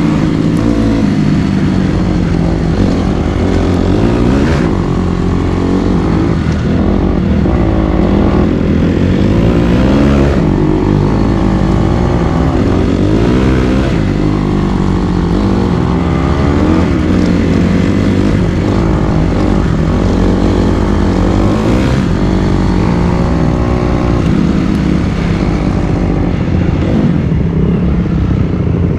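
Dirt bike engine running under way on a trail, its pitch rising and falling again and again as the throttle is opened and closed.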